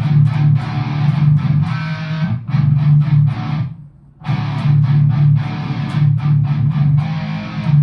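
Electric guitar through a Line 6 Spider IV amp's rhythm channel with no pedals, a lightly distorted tone, playing a rhythm riff of short repeated strokes. It plays two phrases, with a brief break about four seconds in.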